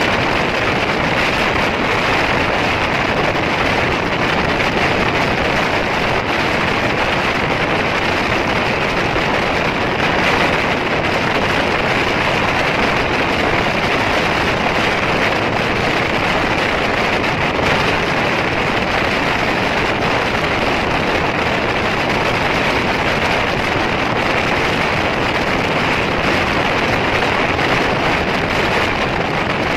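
Steady rush of wind on the microphone mixed with the running noise of a fast-moving passenger train, heard from an open coach door.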